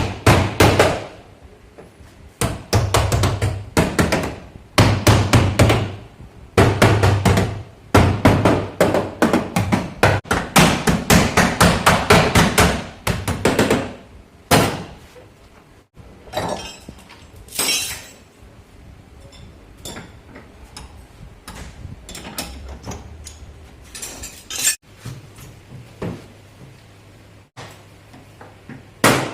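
Hammer striking car body sheet metal, beating out dents: fast runs of ringing blows in groups of a second or two, then scattered single taps in the second half.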